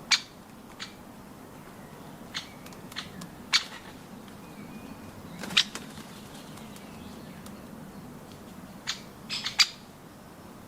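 Birds working at nuts: irregular sharp clicks and knocks, about a dozen spread unevenly, with a quick cluster near the end.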